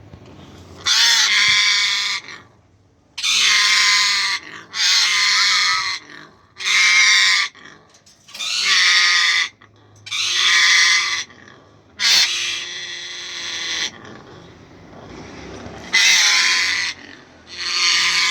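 Indian ringneck parrot squawking: a series of about nine loud, harsh calls, each about a second long, with short pauses between them.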